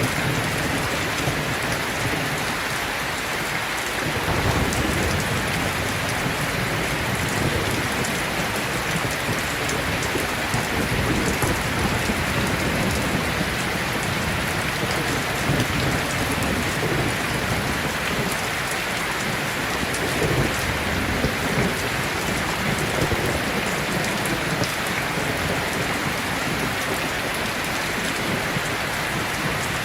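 Heavy rain pouring steadily, with a low rumble of thunder underneath that swells and eases.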